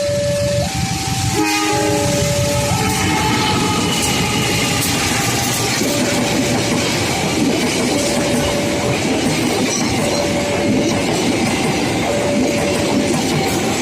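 Train sounding a short horn about a second and a half in, then passing close by with its wheels clattering over the rails in a steady loud rumble. Through it a single electronic warning tone sounds about once every two seconds.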